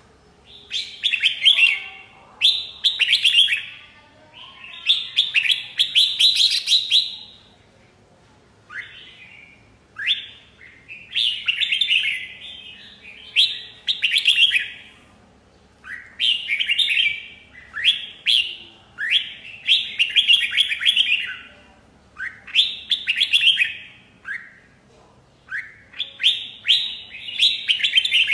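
Red-whiskered bulbul singing: short phrases of quick whistled notes, each a second or two long, repeated over and over with brief pauses between.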